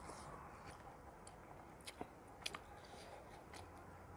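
Faint chewing of a mouthful of rice and chicken curry, with a few soft, scattered mouth clicks.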